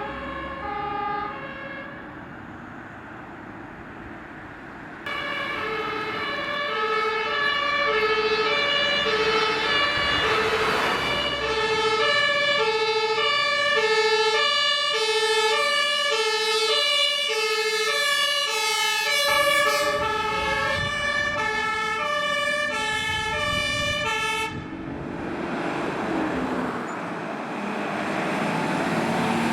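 German fire engine two-tone siren (Martinshorn) sounding its alternating high and low notes as the trucks drive by. It is faint at first, then much louder from about five seconds in, and cuts off near the end, leaving the rush of engine and tyres.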